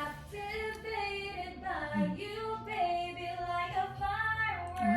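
A high voice singing a melody, each note held about half a second to a second, over a steady low hum.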